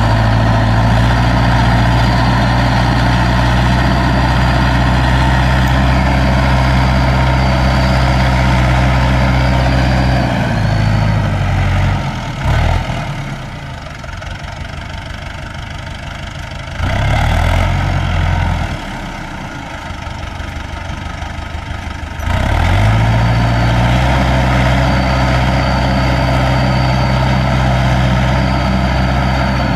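Landini tractor's diesel engine running steadily at high revs, dropping to a lower, quieter speed about ten seconds in, briefly picking up once, then revving back up and running steady again near the end.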